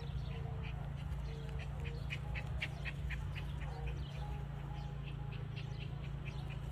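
Birds calling: rapid short high chirps repeating about three or four times a second, with a few lower short notes, over a steady low hum.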